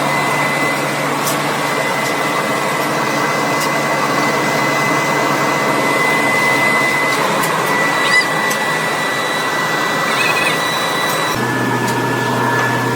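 Workshop machine running steadily with a high thin whine over a hum; the pitch of both shifts a little about 11 seconds in.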